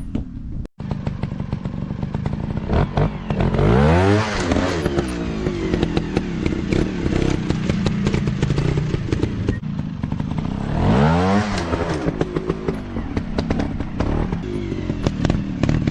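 Dirt bike engine running with a rattly clatter, revving up and back down twice: about four seconds in and again about eleven seconds in.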